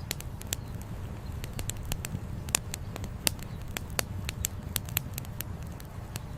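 Campfire wood crackling, with irregular sharp pops several times a second over a steady low rumble.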